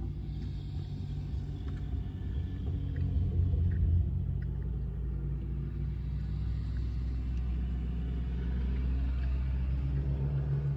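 Low, steady engine rumble of a motor vehicle, swelling about three to four seconds in.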